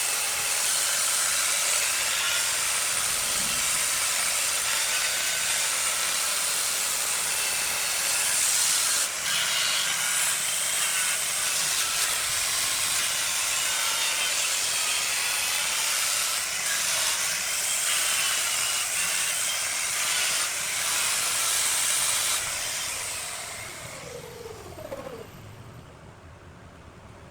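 A tool working jackfruit wood as it spins on a wood lathe, making a steady hissing scrape with a faint wavering whine. It fades out about 23 seconds in, and a short falling tone follows.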